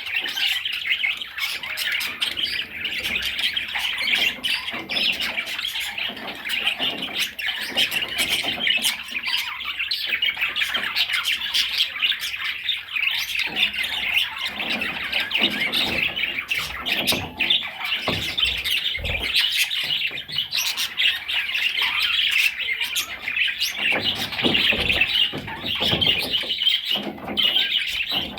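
Budgerigar warbling: a continuous, busy chatter of rapid chirps, clicks and squawky notes that never pauses.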